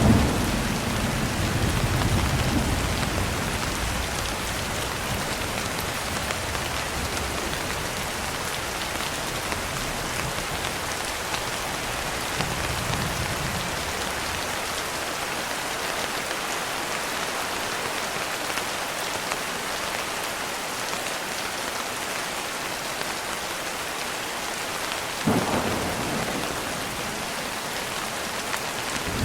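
Steady rain pattering on a window with thunder: a sudden clap right at the start that rumbles on for about three seconds, a fainter rumble near the middle, and another clap about 25 seconds in that fades over a couple of seconds.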